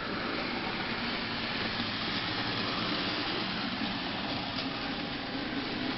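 Model Santa Fe Northern steam locomotive running steadily along the layout track: an even hum of its motor and wheels on the rails.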